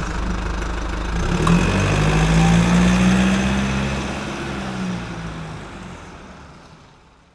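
An engine running steadily, swelling a little about two seconds in, then fading out over the last few seconds.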